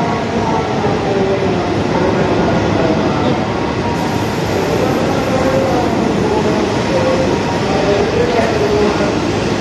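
E7/W7-series Hokuriku Shinkansen train pulling out along the platform and gathering speed: a loud, steady rush of running noise from the wheels and traction motors, with faint wavering tones above it.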